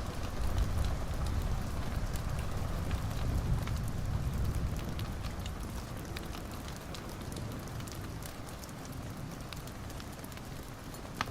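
Wood fire crackling in a fireplace: a steady low rumble of flames under many small pops, with one sharper pop near the end.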